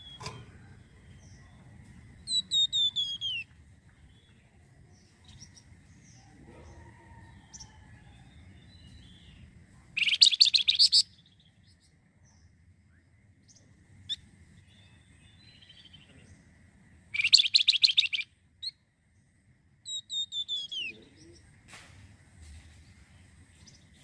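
Flamboyan songbird singing: short series of falling whistled notes, and twice a loud rattling run of rapid notes about a second long. A faint, steady high thin tone runs underneath.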